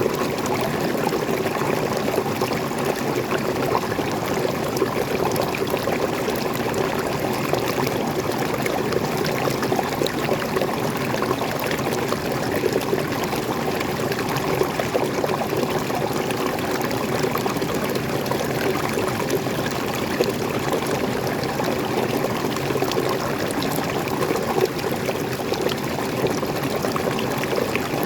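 Waterfall: fresh water pouring steadily.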